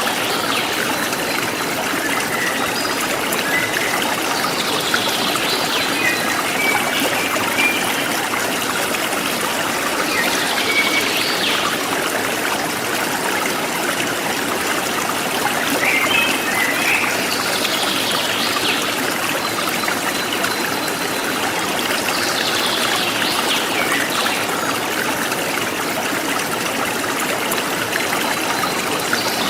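Forest stream running steadily, with birds chirping now and then over it: short sweeping calls every few seconds.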